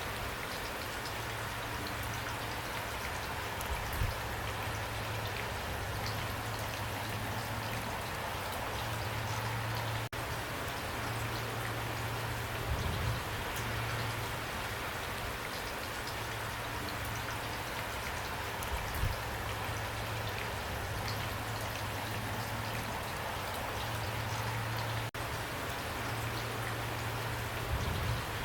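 Heavy rain pouring down steadily, a dense even patter of drops. A low hum comes and goes underneath, with a few soft low thumps, and the sound drops out for an instant twice.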